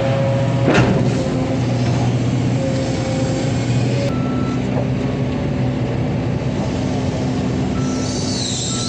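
Long-arm excavator's diesel engine running steadily, with a sharp knock about a second in and short high beeps now and then in the second half.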